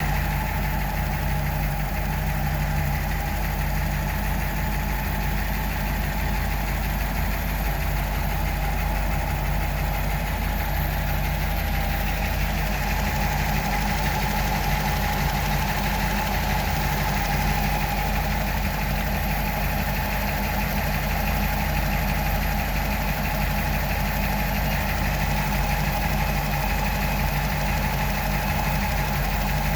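1941 Buick Limited's straight-eight engine idling steadily.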